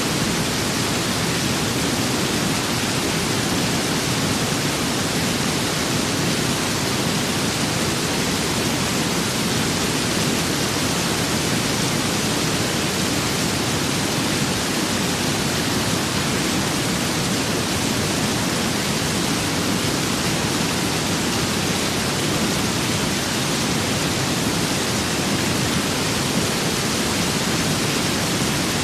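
Steady rain with wind: an even, unchanging hiss with no thunder and no separate drops or gusts standing out.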